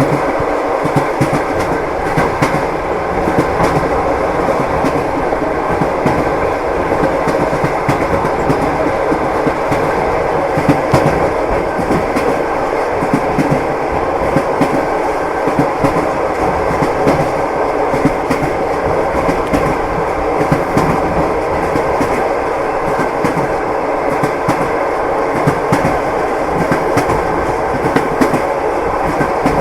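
Train running steadily, its wheels clattering over the rail joints with a continuous rumble and frequent short clicks.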